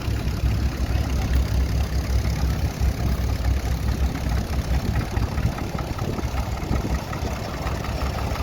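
Small vintage Caterpillar crawler's engine idling, with wind buffeting the microphone.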